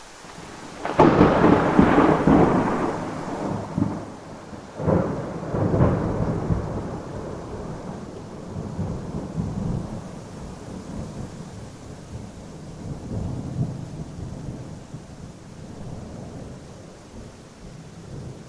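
Thunder over steady rain: a loud crack about a second in, two more sharp cracks around five and six seconds, then a long low rumble that slowly fades away.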